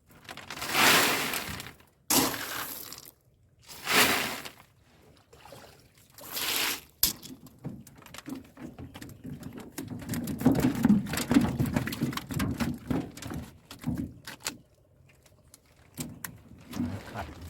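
Water splashing and pouring in four short bursts as a fish trap is handled at the boat, followed by a long run of irregular knocks and thuds.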